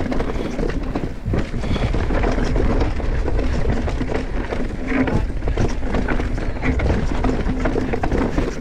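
Mountain bike rattling over rocks: irregular knocks and clatter from the tyres and bike, over a steady low rumble of wind on the microphone.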